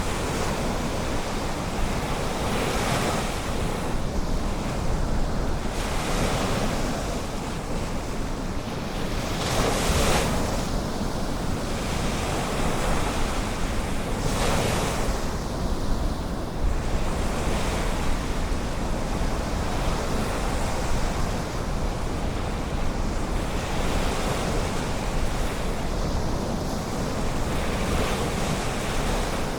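Ocean surf washing onto a beach, with waves surging in every few seconds over a steady low rumble of wind on the microphone.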